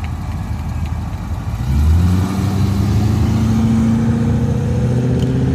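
A car engine rumbling at low revs, then about two seconds in it gets louder as the car accelerates away, its engine note rising slowly in pitch and holding.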